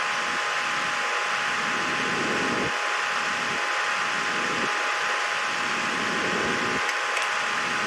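Steady fan-like whooshing noise with two faint steady tones, unchanging throughout.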